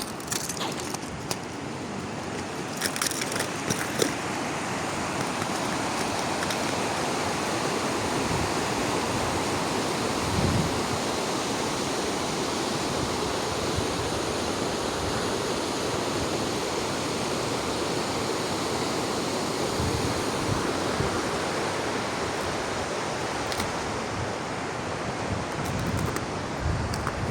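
A mountain stream rushing steadily, with a few brief low gusts of wind hitting the microphone.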